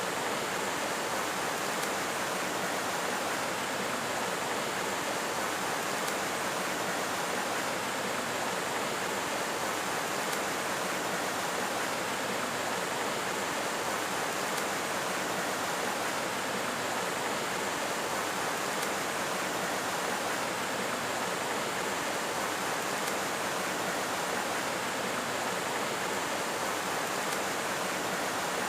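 Steady, even rush of flowing water, like a stream.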